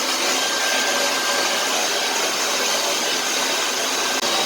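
Hand-held hair dryer running steadily on hair, a continuous blowing rush with a faint steady whine in it.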